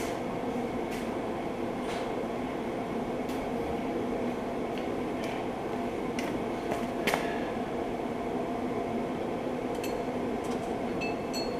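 Steady garage background hum with scattered faint clicks and light metallic clinks from hand tools and parts being handled, one sharper click about seven seconds in.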